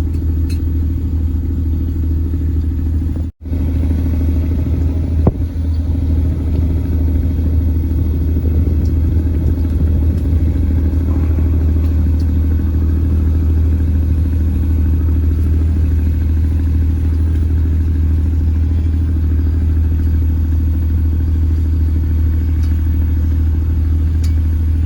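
An engine running steadily at constant speed with a deep, even drone. The sound cuts out completely for an instant about three seconds in.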